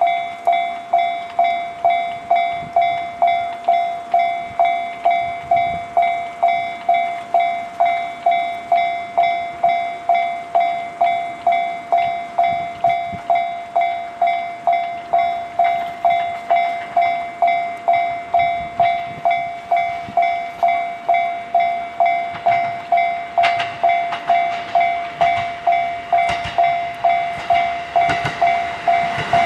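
Railway level-crossing warning bell ringing steadily, about two dings a second. Near the end, the rumble and wheel clicks of an approaching diesel railcar rise underneath.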